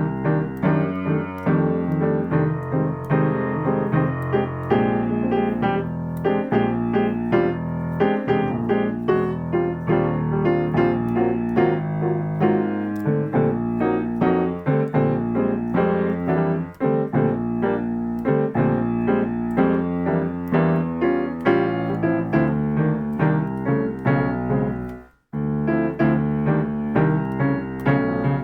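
Piano practising a jazz comping pattern: chords struck in a steady, repeating rhythm, with a brief break about three seconds before the end.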